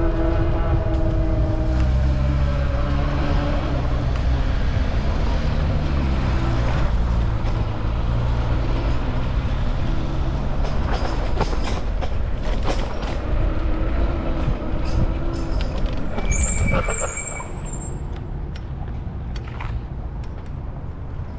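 Street traffic with a large vehicle passing close by: a pitched motor whine that shifts in pitch over the first ten seconds over a steady rumble, then a brief high squeal about 17 seconds in.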